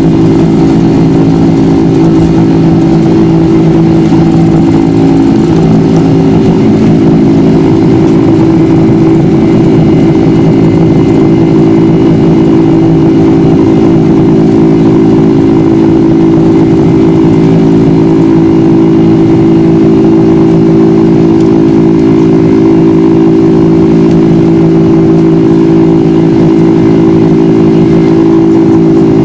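Boeing 747's turbofan engines running steadily, heard from inside the passenger cabin. The sound is a loud, constant hum with several steady tones.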